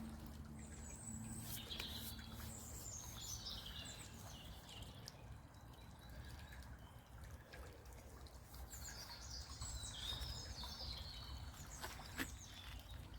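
A songbird singing high, twittering phrases in two spells, one in the first few seconds and another about two-thirds of the way through, over a steady low background rumble from the brookside.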